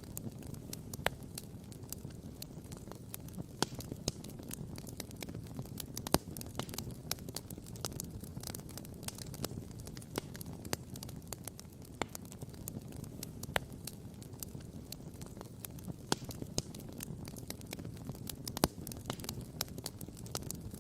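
Wood campfire crackling and popping, with many irregular sharp pops of varying loudness, the loudest about six seconds in and near the end. Beneath them runs a steady low rushing noise.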